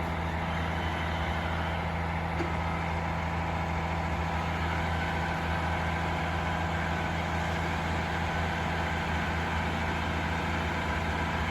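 Diesel engine of a Cat 352 excavator piling rig running steadily while it lifts a steel pile: an even, low drone.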